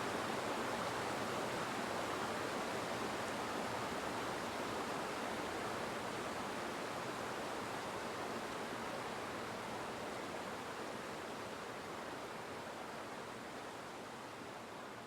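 Steady rushing noise, slowly fading out.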